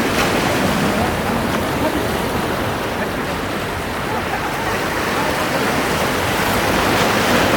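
Sea waves washing on the shore, a steady rushing with no breaks.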